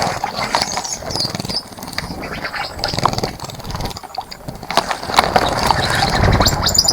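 Water splashing and dripping irregularly in a bird bath as a bird bathes in it, with a low rumble underneath that grows louder in the second half.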